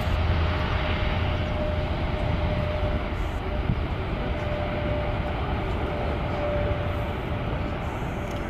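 Airplane taking off in strong wind: a steady engine noise with a low rumble and a held whine, easing off slightly toward the end.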